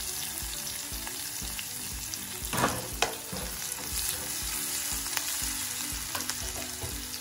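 Chopped garlic, ginger and green chilli sizzling in hot oil in a kadai, stirred with a spatula that scrapes the pan, with one louder stroke about two and a half seconds in.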